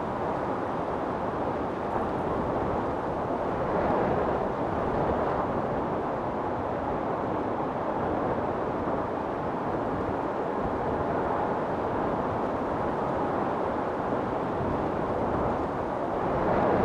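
Wind storm blowing steadily, a dense rushing noise that swells in gusts about four seconds in and again near the end.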